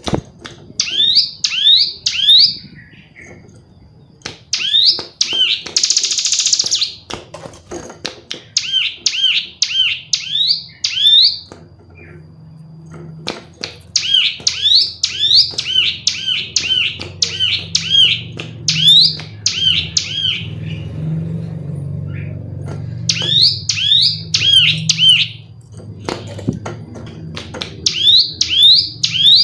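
Female ciblek gunung, a prinia, calling: quick runs of sharp, high, down-slurred chirps, four to eight notes at a time with short gaps, and one buzzy rasping call about six seconds in.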